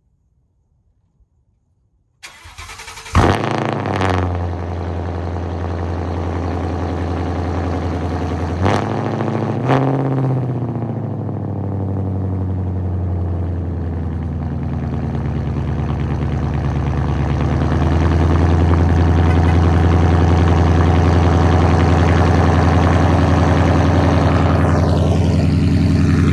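A 2017 Ford Mustang GT's 5.0-litre V8, tuned and with a cold air intake and X-pipe exhaust, is cold-started: after about two seconds of near silence the starter cranks briefly, the engine catches with a loud flare, then settles into a steady, loud cold-start idle.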